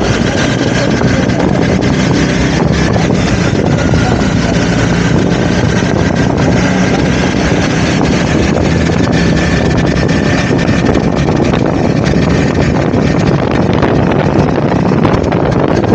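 Honda CBR motorcycle engine running steadily on the move, with heavy wind rushing over the camera's microphone.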